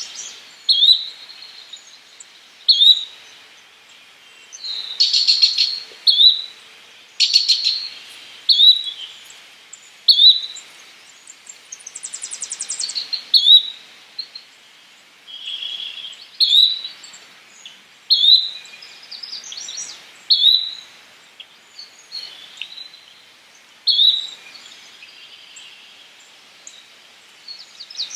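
Yellow-bellied flycatcher calling: short, sharp notes repeated about every two seconds, a few of them buzzy and rough. About halfway through there is a fast high trill.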